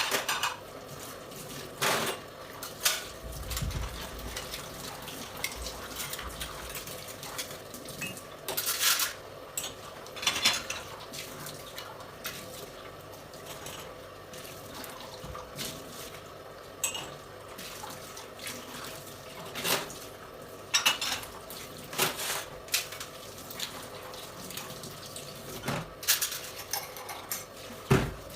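Dishes and cutlery clinking and clattering as they are handled, with occasional short runs of water. The clinks are separate and irregular, a few every couple of seconds.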